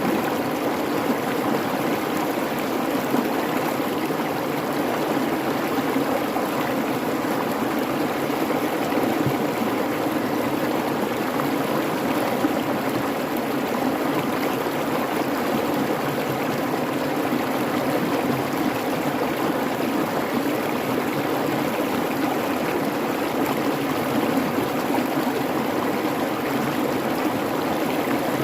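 A babbling creek: a steady, unbroken rush of flowing water, even in level throughout.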